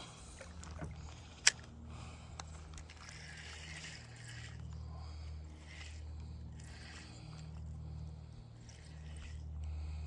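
Water sloshing and small handling noises in a kayak over a steady low rumble, with one sharp click about a second and a half in.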